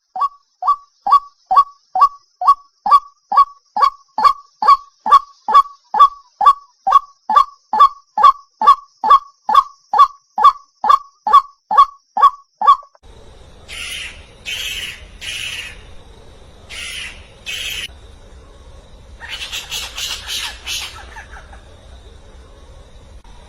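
A bird's short whistled note, sliding down slightly, repeated evenly a little over twice a second for about thirteen seconds. Then a different bird recording follows: harsh squawking calls in short bursts, over a low steady hum.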